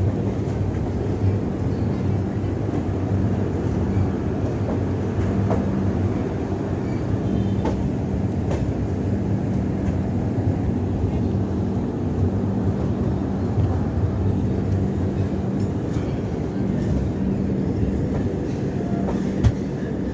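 Passenger train running steadily on the rails: a continuous rumble with a low hum and a single sharp click near the end.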